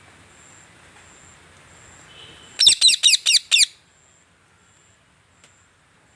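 Pet parrot giving a quick run of about five loud, high calls, each falling in pitch, lasting about a second midway through.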